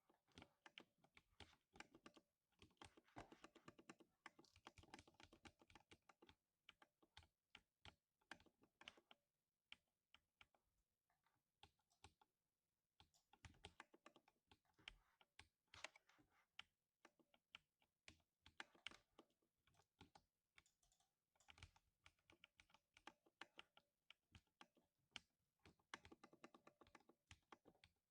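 Typing on a 60% mechanical keyboard with lubed silver linear switches: quiet, muted keystrokes in fast runs broken by short pauses.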